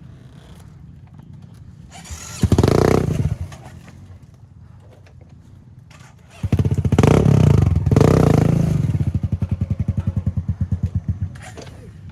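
Dirt bike engine running low, then revved hard twice: a short blip about two and a half seconds in, then a longer burst of throttle that settles into an even pulsing of about five beats a second before dropping back to a low running note near the end.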